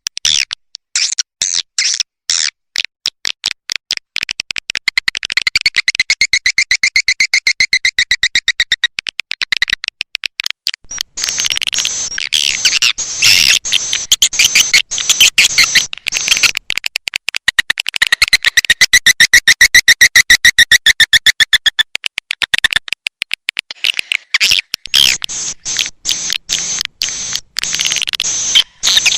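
Swiftlet calls: a rapid run of high clicking chirps, rising twice into longer, louder buzzy trills. This is a swiftlet lure sound, played in swiftlet houses to attract the birds in.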